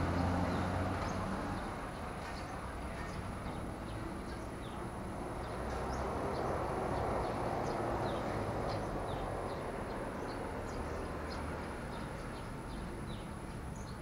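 Short, high bird chirps, many quick downward flicks scattered throughout, over a steady rushing background noise that swells around the middle.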